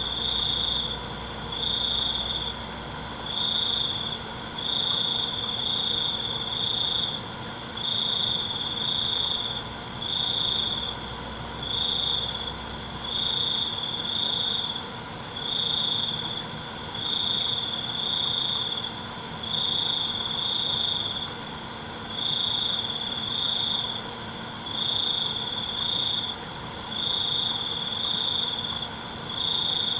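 Crickets chirping in chorus. One loud chirp repeats about every second and a half, a faster, higher trill comes and goes between the chirps, and a steady high-pitched buzz runs underneath.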